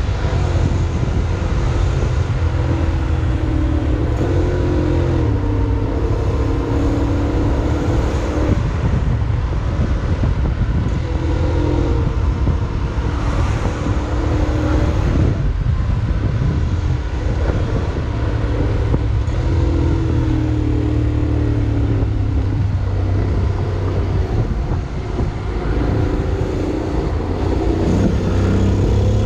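Honda X-ADV 750's parallel-twin engine running under way, its pitch shifting as the throttle changes, over steady wind and road noise.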